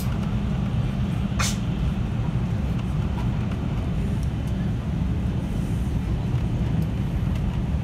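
313 series electric train running, heard from inside the carriage: a steady low rumble of wheels and running gear on the rails, with one short sharp click about one and a half seconds in.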